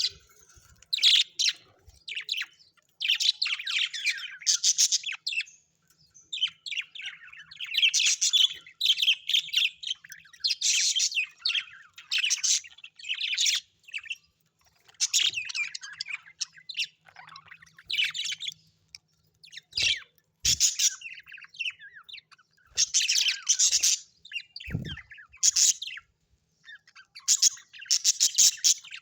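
Pet parrots chirping and chattering in repeated bursts of rapid, high chirps, with short pauses between bursts.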